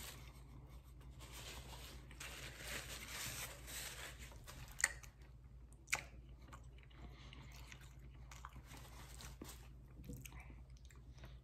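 A man chewing a mouthful of a Texas toast sausage, egg and cheese sandwich with ketchup, faint and close up, with two sharp clicks about five and six seconds in.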